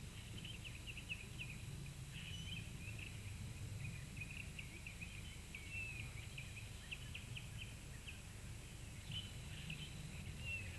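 Faint birds chirping: many short, high calls in quick succession, over a low steady hum.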